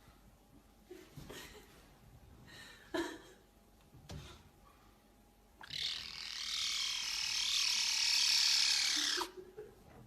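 Lynx kitten vocalising: a few short squeaky calls, then one long, harsh, raspy call of about three and a half seconds, starting a little past halfway and cutting off abruptly.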